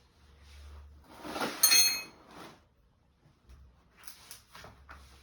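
Metal hand tools being handled under the car: a loud clank about a second and a half in with a brief metallic ring, then a few light clicks and taps.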